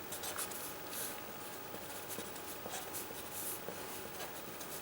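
A pen scratching on a drawing surface in short, irregular strokes: someone writing or drawing by hand.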